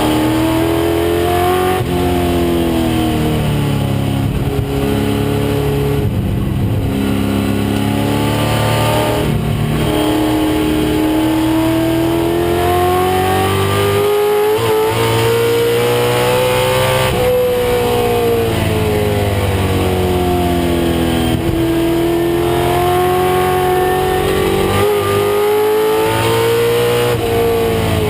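1996 Ford Mustang race car's engine under hard use. Its note climbs for a few seconds at a time, then falls sharply several times as it lifts off, brakes and shifts between gears.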